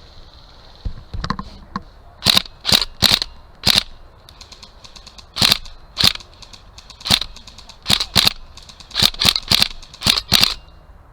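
An airsoft rifle firing single shots close by: about fourteen sharp cracks in irregular groups, some only a fraction of a second apart, starting about two seconds in.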